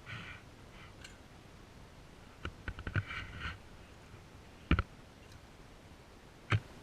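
A few sharp clicks and knocks at uneven intervals: a quick cluster a little before the middle, then two louder single clicks, one just past the middle and one near the end.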